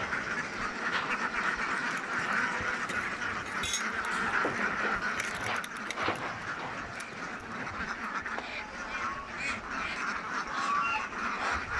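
A large flock of domestic ducks quacking together in a dense, continuous chorus, with occasional knocks.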